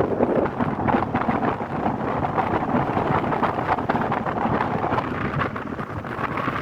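Wind buffeting the microphone over steady road and traffic noise from travel along a city street.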